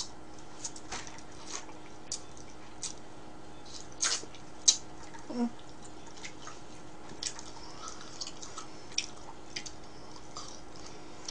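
Close-miked eating of pizza: irregular wet clicks and smacks of chewing and lips, with a short rising squeak about five seconds in.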